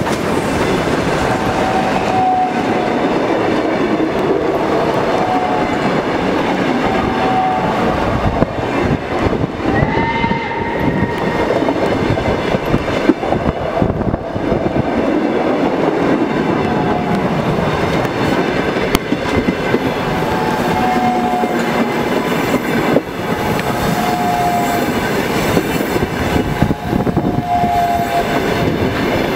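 Railway passenger coaches rolling past close by with a steady rumble, their wheels clattering over the rail joints. Short high squeals come from the train every few seconds.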